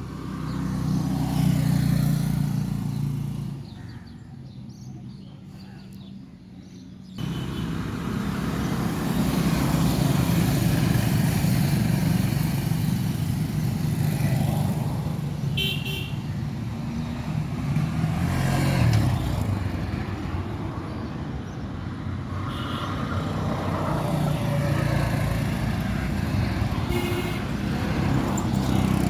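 Road traffic: a steady low rumble of passing vehicles with a few brief horn toots. The sound drops away for a few seconds and then comes back suddenly about seven seconds in.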